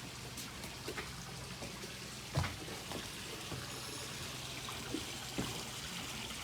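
Rain falling, with water trickling and dripping and scattered louder drips, the loudest about two and a half seconds in, over a faint low steady hum.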